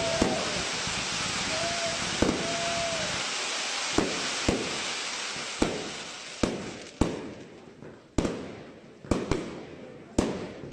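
Fireworks shells bursting in the sky, about a dozen sharp bangs, each echoing away. The bangs are laid over a dense crackling hiss that thins out about halfway through, leaving the later bangs more spaced and distinct.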